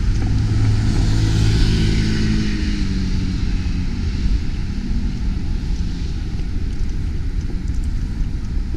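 A motor vehicle going by, its engine tone falling slightly in pitch and fading after the first few seconds, over a steady low rumble of wind on the microphone.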